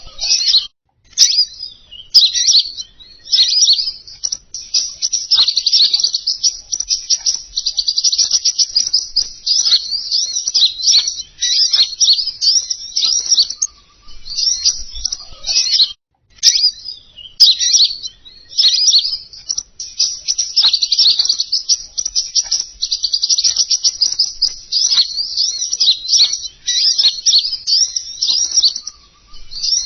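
Lure recording of the songbird called king konin: a high, rapid chattering twitter of dense notes, run together in long phrases with a few short breaks.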